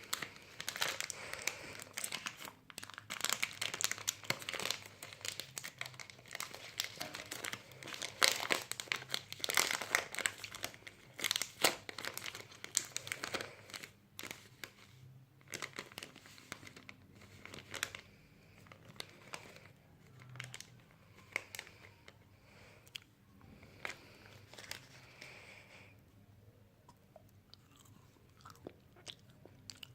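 Close-miked ASMR crunching and crinkling: dense crackles for about the first half, then thinner and quieter toward the end.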